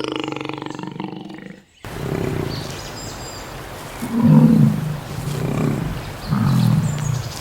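Farm animal calls: a pitched call that breaks off abruptly, then a different animal giving deep, low calls about once a second.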